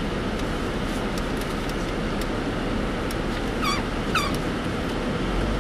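Steady road and engine noise inside a moving car's cabin. Two short, high, wavering squeaks come about two-thirds of the way through.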